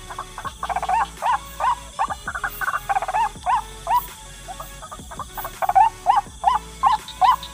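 White-breasted waterhen (ruak-ruak) calling: a rapid run of loud, harsh, arched 'kruak' notes repeated about two to three times a second. The notes thin out in the middle and come back steady and regular near the end.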